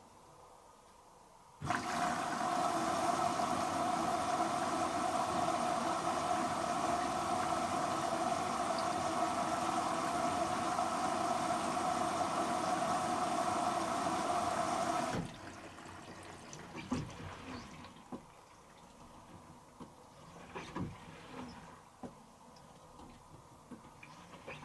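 Hoover H-Wash & Dry 500 washer dryer filling with water: a steady hiss of water rushing in through the inlet valve, starting suddenly about two seconds in and cutting off sharply about thirteen seconds later. Faint scattered clicks and knocks follow.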